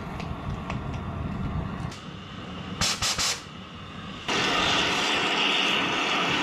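Oxy-propane cutting torch: a low rumbling flame, three short sharp hisses near the middle, then a loud steady hiss of gas from about four seconds in.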